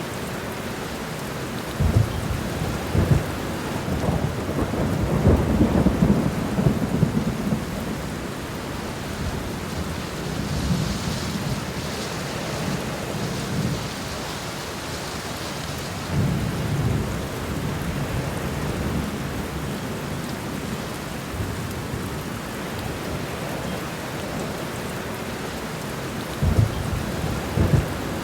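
Steady rain with rolls of thunder. The longest and loudest rumble builds a couple of seconds in and fades after several seconds, with shorter rumbles about halfway through and near the end.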